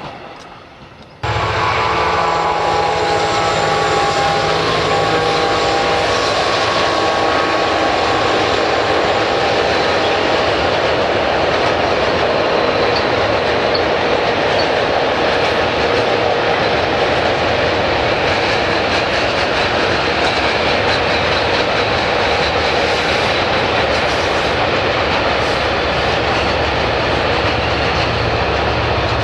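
Diesel locomotives working a heavy sand train past at close range: steady, loud engine note under load with the rumble and clatter of the wagons on the rails. The sound starts abruptly about a second in.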